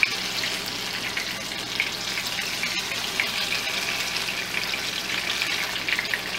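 Banana fritters frying in hot oil: a steady sizzle with many small crackling pops.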